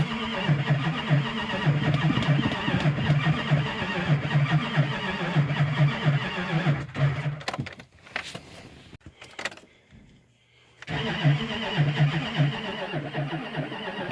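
2006 diesel pickup engine cranking on the starter without catching, a rhythmic chug of compression strokes. It stops for a few seconds about halfway, with a few clicks and knocks, then cranks again. It won't fire because the fuel system isn't priming; the owner suspects a pinhole in the fuel line sucking air.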